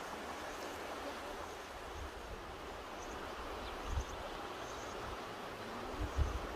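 Mountain river rushing steadily. Two brief low bumps, about four seconds in and again near the end, stand out as the loudest moments.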